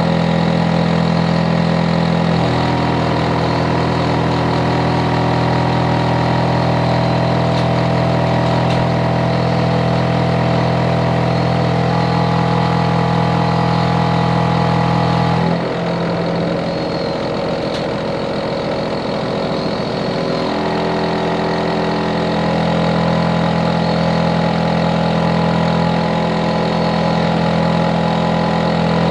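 Hitachi air-conditioner outdoor unit running loudly with a steady, deep hum. About two seconds in its tone shifts slightly. In the middle the deep hum drops out and turns rougher for about five seconds, then settles back to the steady hum.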